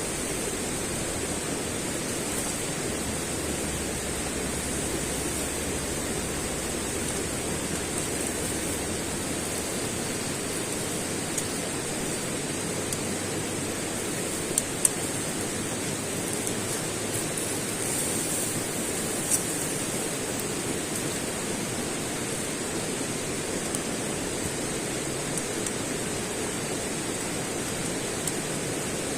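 Steady rushing outdoor noise, with a few short sharp clicks about halfway through.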